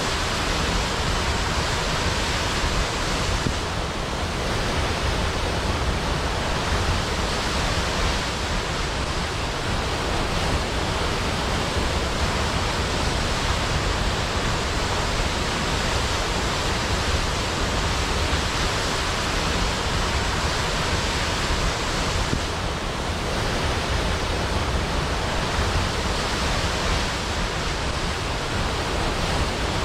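Large waterfall crashing down a cliff into a pool, a steady, dense rush of water that barely changes.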